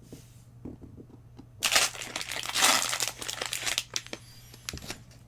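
Plastic booster-pack wrapper crinkling loudly for about two seconds, as if being torn open or crumpled, with faint clicks of cards being handled before and after.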